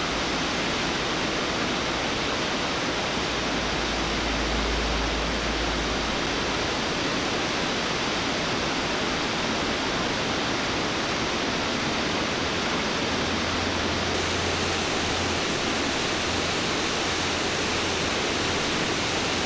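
Curly Creek Falls, a waterfall plunging into a creek, giving a steady, even rush of falling water.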